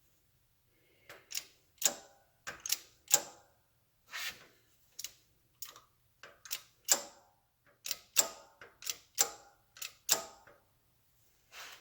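A new oil seal being tapped into its bore on a Triumph Trident's gearbox case, behind the front final drive sprocket: a string of sharp, irregular taps, roughly two a second, working the seal in evenly.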